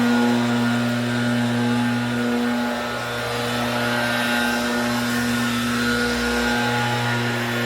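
An engine running steadily at idle, a constant low hum with a strong steady tone.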